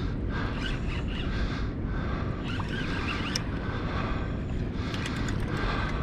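Steady wind rumbling on the microphone, with fainter higher sounds coming and going and a few light clicks near the end.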